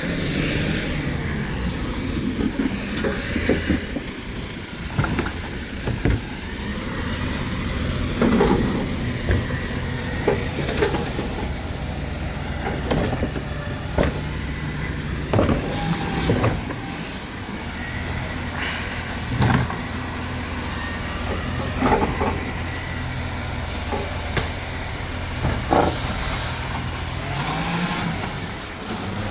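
Rubbish truck engine running steadily, with a series of sharp clunks and bangs every couple of seconds, as of the truck's gear handling and emptying bins. The engine note rises near the end.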